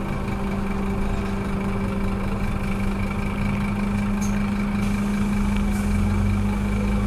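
Scania K230UB bus engine running steadily with an even hum, its pitch unchanging.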